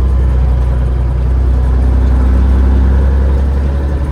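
Peterbilt 379 semi truck's diesel engine running while driving: a steady low drone that swells a little about halfway through and eases off near the end.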